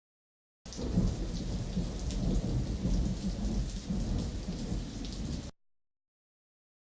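Heavy rain with a low rumble of thunder, starting abruptly just under a second in and cutting off sharply about five and a half seconds in.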